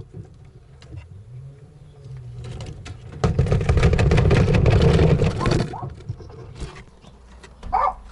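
Rustling and scraping for about two and a half seconds, from handling the rabbit cage as its lid is closed and the camera set down, after a low steady hum.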